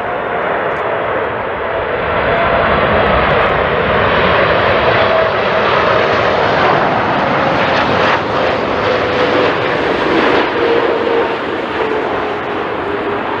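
Jet airliner's engines flying past at close range, a loud rushing noise that swells towards the middle and eases near the end, with a whine that slowly falls in pitch as the aircraft goes by.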